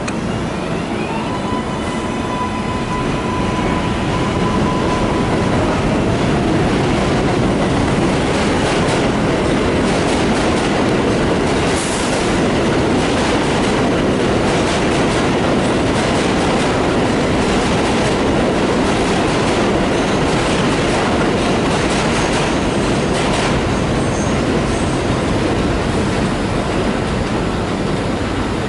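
A train passing close by: a steady rush of wheels on rail with many short clicks and a brief high squeal. It builds over the first few seconds, with a steady tone at first, and eases near the end.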